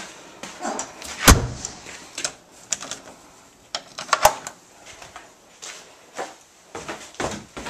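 Irregular knocks and clicks, the sharpest about a second in and another just past four seconds in.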